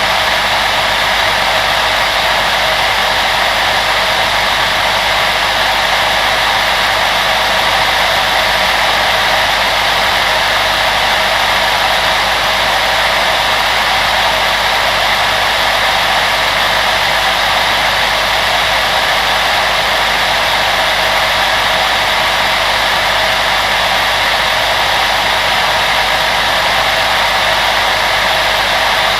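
An electric appliance fan, a hair dryer or range-hood blower, running steadily: a continuous even rush of air with a faint low hum underneath.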